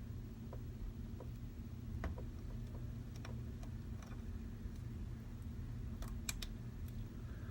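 Scattered small clicks and ticks of a thin steel pry tool working under the glued home button bracket of an iPad Pro screen, with a cluster of sharper clicks about six seconds in, over a steady low hum.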